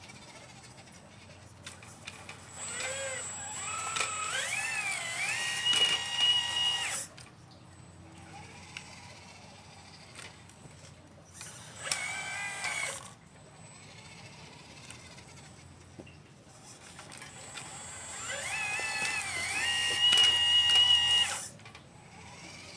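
A 1/12-scale RC Liebherr 954 excavator's electric motors whining in three bursts: two long ones, each climbing in pitch and then holding steady, and a short one in between.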